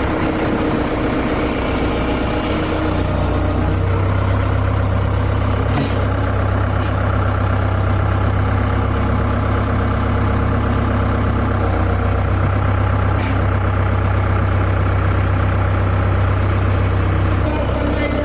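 Bulldozer's diesel engine running steadily, its deep hum growing stronger about three seconds in as the machine is worked to bring the loose track chain up. A couple of faint clicks sound over it.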